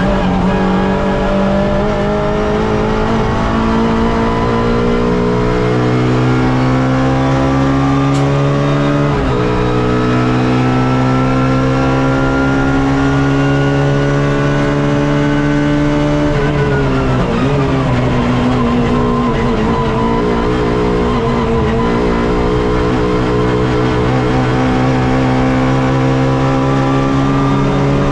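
Suzuki Swift race car's engine heard from onboard under hard acceleration, its pitch climbing steadily, dropping sharply at an upshift about nine seconds in, then climbing again. About two-thirds of the way through the pitch falls away over a couple of seconds as the car slows, then the engine pulls again.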